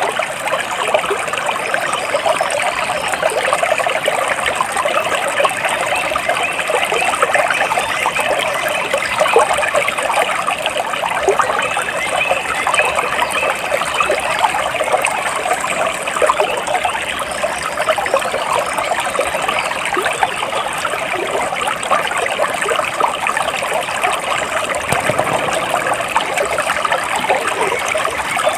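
Stream water trickling and babbling steadily over stones, an unbroken, even flow.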